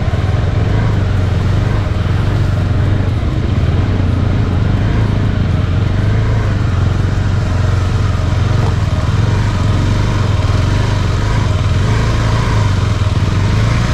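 KTM 390 Adventure's single-cylinder engine running steadily as the motorcycle is ridden over a rough off-road stretch.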